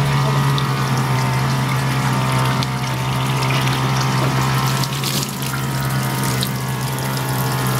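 A steady low hum with a rushing hiss over it and a few faint clicks.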